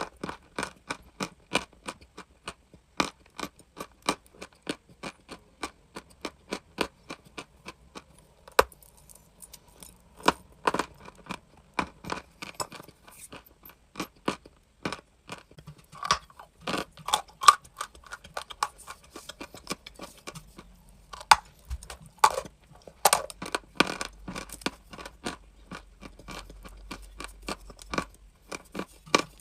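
Dry, crunchy chalk crunching close to the microphone: a quick, irregular run of sharp crunches, several a second.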